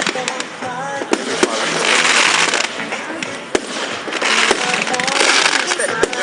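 Fireworks going off at a public display: scattered sharp bangs, with two long swells of hissing noise, the second near the end.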